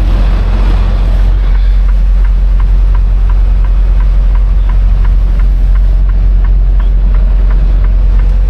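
Semi truck's diesel engine running with a steady low rumble, with a light regular ticking about three times a second.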